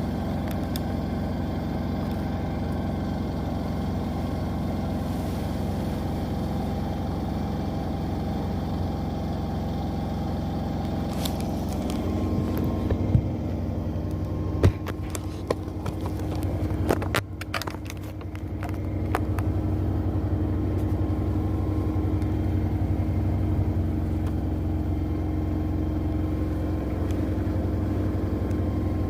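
Two front-loading washing machines, an LG with the Centum system and a Zanussi, running side by side through their spin cycles: a steady motor hum and whine. About halfway through there are a few sharp clicks and a brief dip as the spin changes, then the steady spin sound returns, a little louder.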